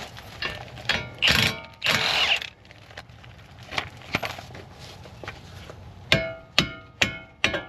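Metal auto parts handled and knocked together: two brief scraping, rustling noises early on, then four sharp metallic clanks with a short ring, about half a second apart near the end.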